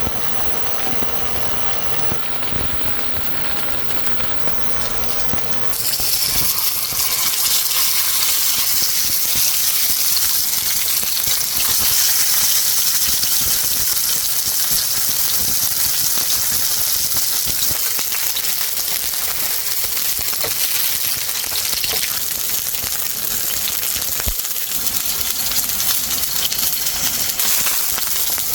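Beef steak sizzling in a hot oiled pan. The sizzle starts suddenly about six seconds in, as the meat goes on, and carries on loud and steady.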